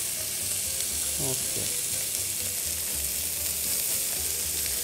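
Whole pre-cooked octopus searing in olive oil in a hot pan, sizzling steadily.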